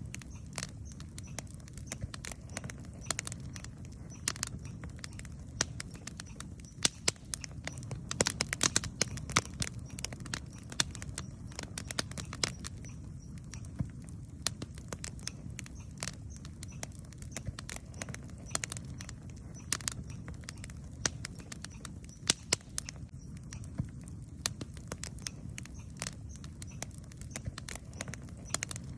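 Wood campfire crackling and popping in irregular sharp snaps over a low steady rumble, with a denser run of pops about eight seconds in.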